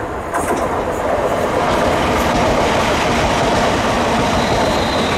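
A train passing along the track, getting louder about half a second in and then holding steady, with a faint high whine near the end.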